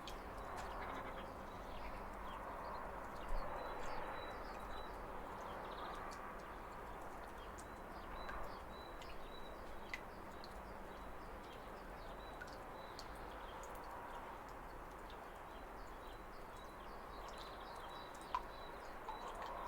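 Steady rush of a waterfall with birds chirping over it: many short high chirps throughout, and a thin, high, drawn-out note that comes and goes.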